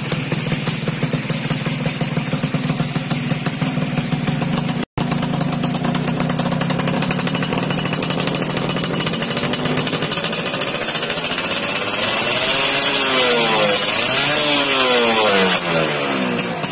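Yamaha F1ZR two-stroke single-cylinder engine running through an aftermarket racing exhaust. It idles with a fast, uneven pulse, cuts out briefly about five seconds in, then is revved up and down, the pitch rising and falling twice near the end.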